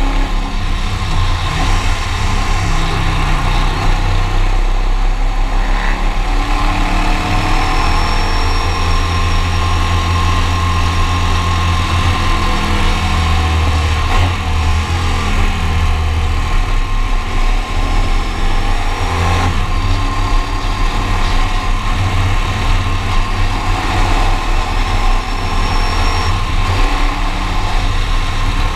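Ducati Monster sidecar rig's V-twin engine running at cruising speed, heard from onboard along with wind and road noise; its pitch drifts up and down gently with the throttle.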